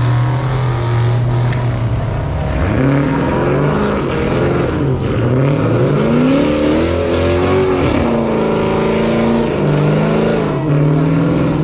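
A car engine revving hard, its pitch climbing and dropping several times: a steady high note at first, a sharp climb about three seconds in, a long rise from about five to eight seconds, then steadier high revs to the end.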